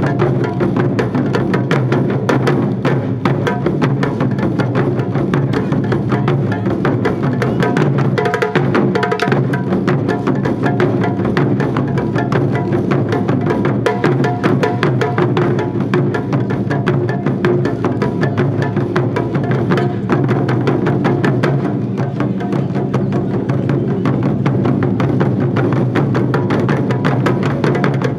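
Wadaiko ensemble: several Japanese taiko drums played together in a dense, driving rhythm of rapid strikes, without a pause.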